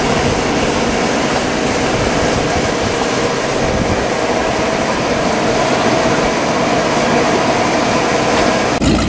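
A steady engine drone, with a sudden change to a different, lower engine sound near the end.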